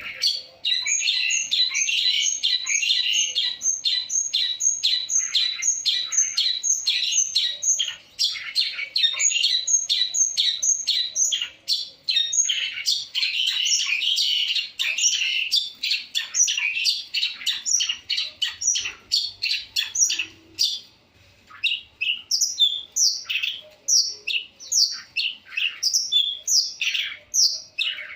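Long-tailed shrike (cendet) in full song, a fast, varied chatter of rapid notes. From about two-thirds of the way through, the notes come more spaced out, as separate downward-sliding calls.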